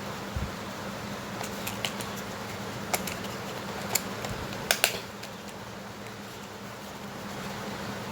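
A steady low hum with scattered sharp clicks and taps, the loudest a quick pair about five seconds in.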